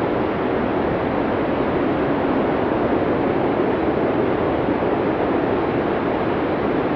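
Blizzard wind blowing as a steady rush of noise, with no gusts or breaks.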